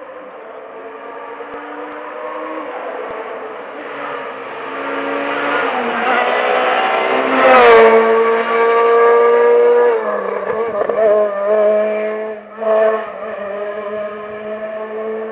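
Rally car approaching at speed, its engine note building until it passes close about eight seconds in with a sudden drop in pitch. It then carries on away, the engine note stepping up and down with two short loud bursts, and fades.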